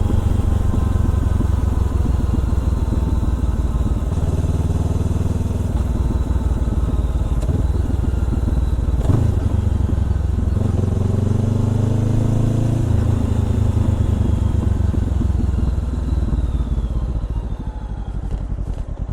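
Honda CBR400R parallel-twin running through a Trick Star Ikazuchi exhaust while riding, its pitch stepping between gears several times. Near the end it eases off and winds down as the bike slows.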